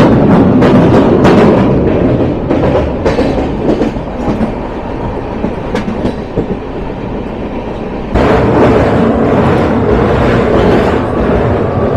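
Humsafar Express train running on the track, with rattling and wheel clicks over the rail joints in the first couple of seconds. It turns quieter, then suddenly louder again about eight seconds in.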